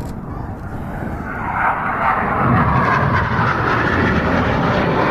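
BAE Hawk T1 jets of the Red Arrows with their Adour turbofans, a loud jet rush that builds up over the first two seconds or so and then holds steady.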